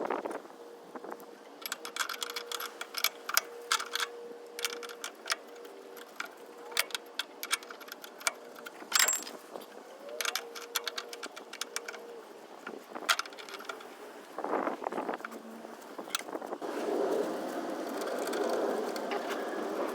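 Hand tools and metal parts clinking and clicking in irregular bursts during work on a VW Type 2's engine.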